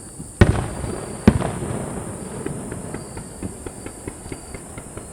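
Aerial firework shells bursting: two loud booms about a second apart near the start, each with a short echo, followed by a run of many faint, quick pops.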